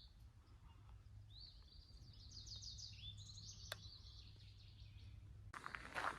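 A songbird singing faintly, a run of quick repeated high notes from about a second in until nearly five seconds. Footsteps on the trail start near the end.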